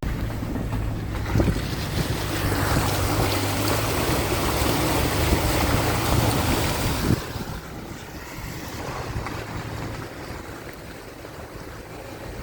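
A vehicle driving with a low engine hum under a loud, even rushing noise, which drops off sharply about seven seconds in, leaving a quieter hiss.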